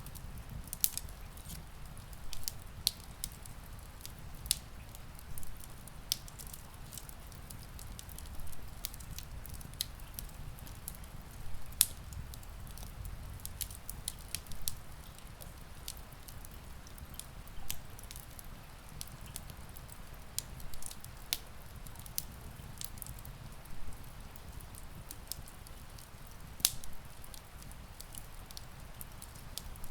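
Wood fire crackling in a fireplace: irregular sharp pops and snaps, a few a second, the loudest about twelve seconds in, over a steady low rumble, with rain in the background.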